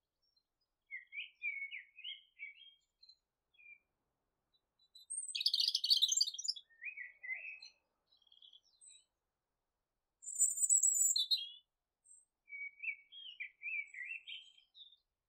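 Small birds chirping in short phrases with pauses between them. There is a louder burst of rapid high notes about five seconds in, and a thin, very high call around ten seconds in.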